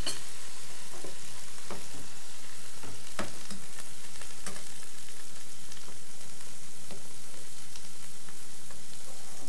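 Chard-leaf rolls sizzling steadily in hot oil in a frying pan, laid fold-side down so the fold sears shut. A few short clicks sound over it in the first half.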